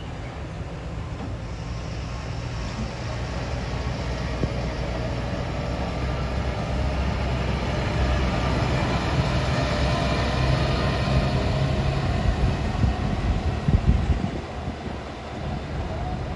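Heavy truck loaded with sugarcane, its engine labouring uphill and growing louder as it comes closer, with a few louder jolts near the end.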